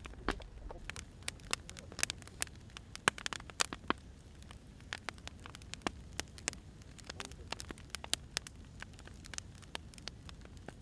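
Firewood burning, crackling with many irregular sharp pops and snaps over a low, steady hiss.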